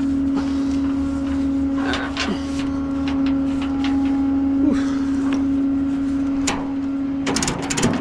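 Tow truck engine idling with a steady hum, with a few clanks of metal tie-down gear. Near the end comes a quick run of ratchet clicks as a tie-down is cranked tight.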